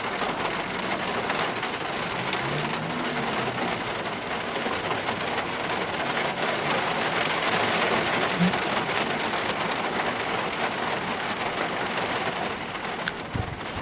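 Steady rain falling, an even hiss of drops, with a short knock near the end.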